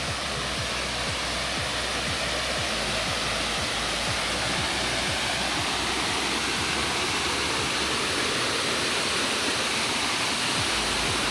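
Steady rush of a waterfall pouring down a rock face.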